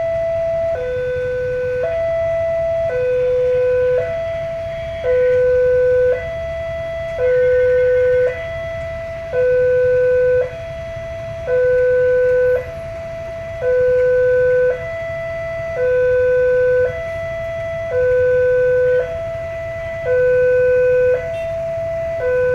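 Railway level-crossing warning alarm sounding a steady two-tone high-low signal, switching pitch about once a second, over a steady low rumble.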